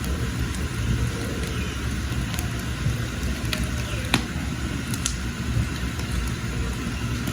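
Wood fire burning in a firewood hearth: a steady low roar of the flames with a few sharp crackles and pops, the loudest about four seconds in.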